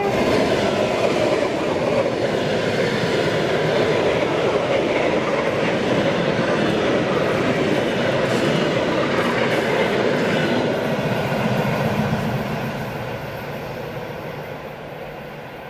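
Electric train passing close by at speed, its wheels running loud and steady on the rails, then fading away from about twelve seconds in.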